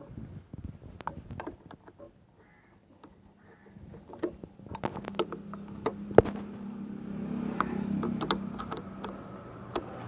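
Short metallic clicks and knocks of hand work on a motorcycle indicator's loose mounting nut being tightened, with a steady low hum coming in from about halfway.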